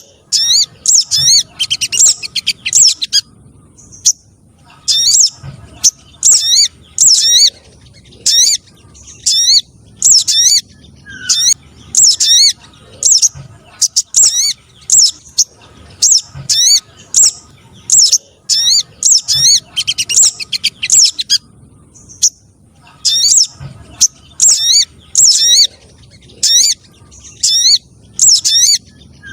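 Recorded spiderhunter calls played as a bird lure: high, sharp chirping notes in quick runs of about a second, repeated with short pauses.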